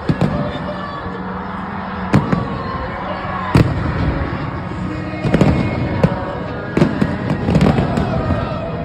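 Fireworks bursting overhead: a string of sharp bangs at irregular intervals of about a second, over a steady background of music.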